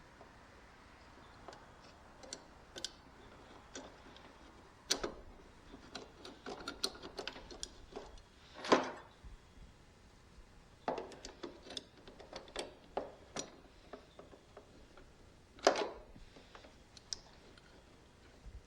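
Irregular metallic clicks and taps of hand tools and bolt hardware being worked on a zero-turn mower's lap bar mount, with a few louder knocks.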